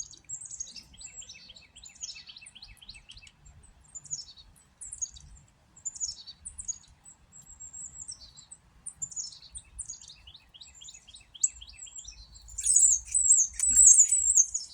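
A mixed flock of small songbirds, chickadees, titmice and towhees among them, chirping over one another at freshly put-out feed: a steady stream of short, quick, falling chirps, with a louder warbling run of calls near the end.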